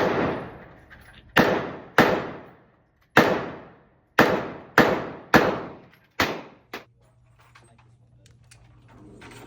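Gunfire: about nine shots fired one at a time at an uneven pace over some seven seconds, each followed by a long echoing tail, the last two close together.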